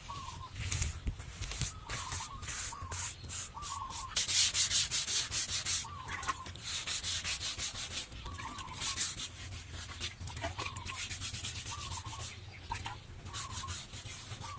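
Rapid runs of rubbing or scraping strokes, like sanding or scraping a surface by hand, at several strokes a second and heaviest about four to six seconds in. Short squeaky chirps recur about once a second alongside.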